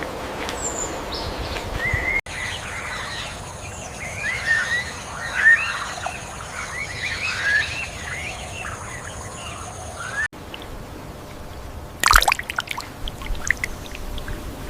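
Outdoor ambience in three abruptly switching stretches. The middle stretch is a busy chorus of many short bird chirps over a faint steady high-pitched hiss. About twelve seconds in comes a loud, short, sudden noisy burst, followed by a few smaller clicks.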